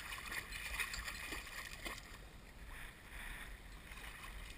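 Water splashing and sloshing around a kayak, uneven and grainy, with a few faint knocks.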